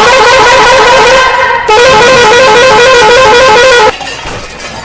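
A battery-powered toy vehicle's electronic sound effect: a loud, warbling horn-like tone that wobbles quickly in pitch, played twice for about two seconds each with a short break, then stopping about four seconds in.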